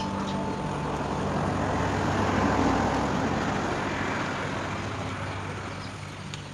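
A motor vehicle passing by, its noise swelling to a peak about two and a half seconds in and then fading away, over a steady low hum.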